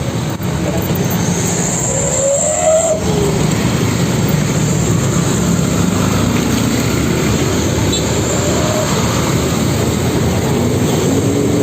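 Heavy road traffic: vehicle engines running under a continuous wash of road noise, with engine pitches rising and falling now and then.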